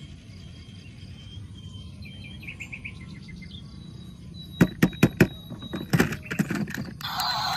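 A short run of rapid faint high chirps, then several sharp clicks or knocks: three close together about halfway through and a cluster a second later. A loud hissing noise starts just before the end.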